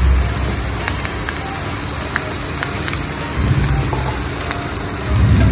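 Chopped onion, green chilli, ground spices and fresh curry leaves sizzling in hot oil in a nonstick frying pan, with small crackles here and there.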